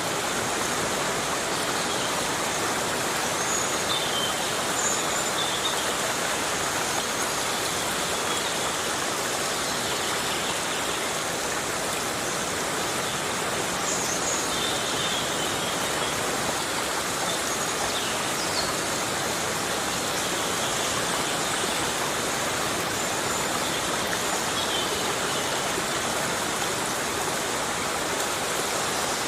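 Heavy rain falling steadily on a tropical forest: an even, unbroken hiss. Faint, short, high chirps sound here and there.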